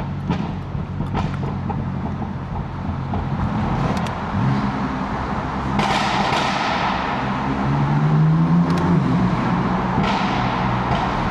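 BMW F80 M3's twin-turbo inline-six exhaust while driving, the engine note climbing in pitch and getting louder as the car accelerates, with a few sharp exhaust pops.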